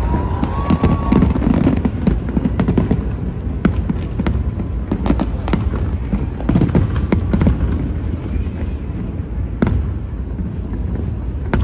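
Fireworks going off in quick, irregular succession: sharp bangs and crackles over a continuous low rumble of booms.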